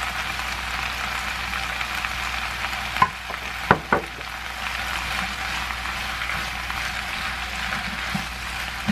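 Spicy pork and cabbage stir-frying in a frying pan: a steady sizzle while a spatula stirs and tosses the food, with a few sharp knocks about three to four seconds in.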